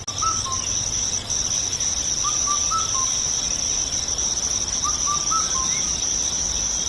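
Morning countryside ambience: a steady high-pitched chirring of crickets, with short groups of bird chirps about every two to three seconds.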